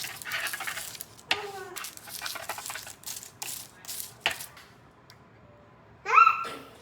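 A baby's short high-pitched squeals, the loudest near the end, with rustling and clicking handling noises in between.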